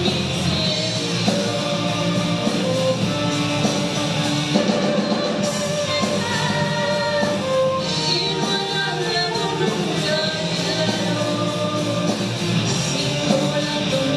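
Live rock band playing a song, with a sung melody over the full band.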